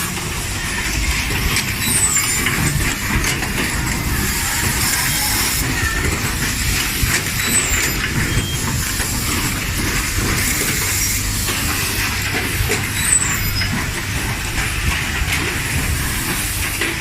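Automatic HDMI connector soldering machine running: a steady mechanical noise with a low hum, an even hiss and scattered light clicks.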